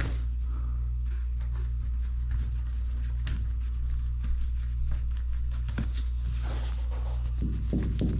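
Scattered light clicks and taps from hands working on a washing machine's adjustable levelling feet and lock nuts, over a steady low hum.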